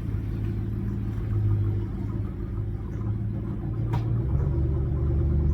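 2019 Ford Super Duty pickup driving, a steady low engine and road rumble. A single click comes about four seconds in, and the hum turns deeper and stronger just after it.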